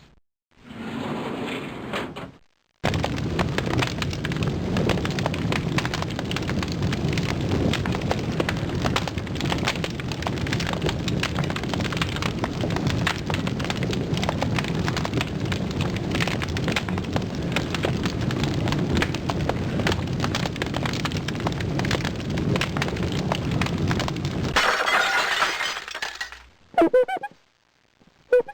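A run of separate sound effects: a short noisy burst, then about twenty seconds of dense crackling and cracking, then a brief brighter hiss and a few short pitched calls near the end.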